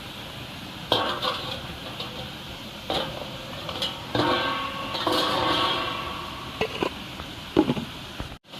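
Cooking pot and metal utensils clattering and scraping in a few separate bouts, with one longer ringing scrape in the middle and a sharp knock near the end, over a steady rushing background.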